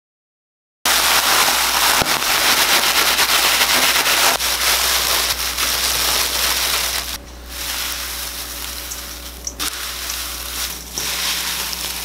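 Crisp toasted laver sheets (gim) crackling as they are crushed and crumbled by hand, a dense dry crackle that sets in about a second in and gets lighter past the halfway point.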